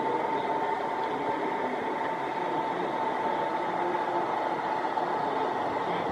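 Santa Fe and Union Pacific train running by: a steady rolling noise with a thin, high, steady tone over it.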